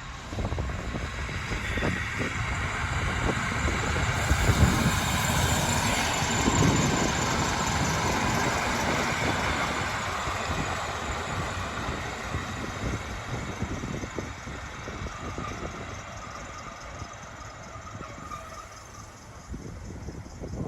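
A train passing on the line, with the rumble and rush of wheels on rail growing loudest a few seconds in and then slowly fading away. Wind buffets the microphone.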